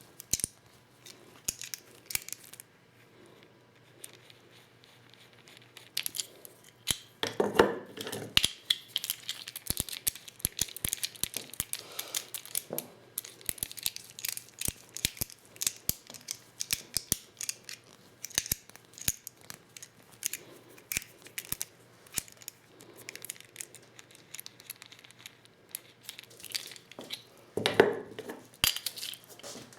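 Hand-reloading 12-gauge shotgun shells with a Lee Loader: a steady run of small clicks, taps and rattles as shell hulls and tool parts are handled. Two longer, heavier handling sounds come about a quarter of the way in and near the end.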